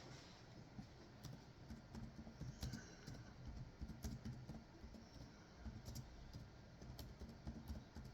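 Faint typing on a keyboard: irregular small clicks and soft key knocks throughout, as a reply is typed out.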